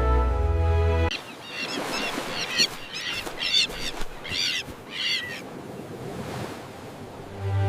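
Common terns calling: about seven short, high calls in quick succession over a steady hiss. Background music plays for the first second and comes back near the end.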